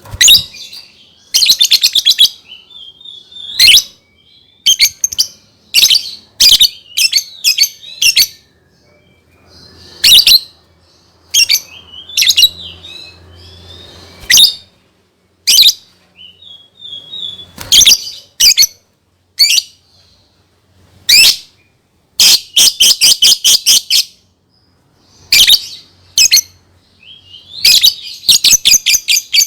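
Lovebird chirping: loud, shrill chirps, some single and some in fast runs of many chirps in a row, with short pauses between.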